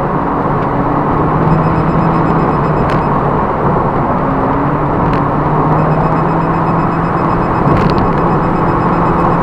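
Toyota Prius's 2ZR-FXE 1.8-litre four-cylinder engine running hard at a mostly steady pitch, heard from inside the cabin together with loud road and tyre noise, with a few faint ticks.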